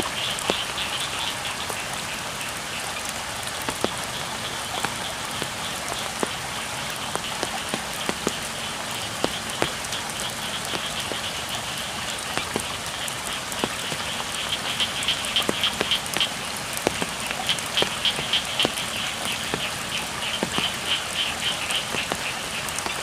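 Steady rain with scattered drop ticks, and frogs calling in bouts of rapid, high pulsing, at the start and again several times in the second half.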